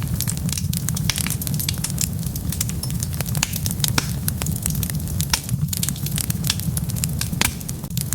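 Wood fire burning and crackling: many irregular sharp pops and snaps over a steady low rumble.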